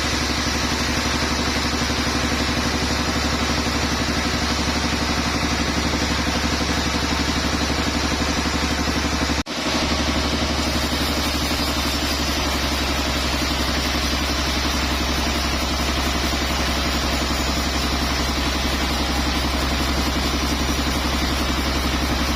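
Engine running steadily at a constant speed with an even low hum, broken for a split second about nine and a half seconds in.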